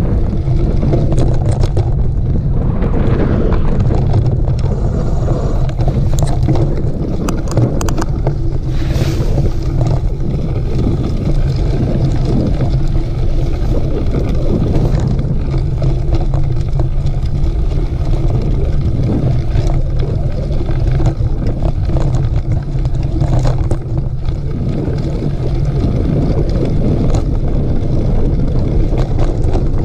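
Wind rushing over the microphone of a camera riding along on a mountain bike during a trail race, with the bike's tyres and frame rattling over the dirt. The noise is loud and steady, broken by a few short clicks.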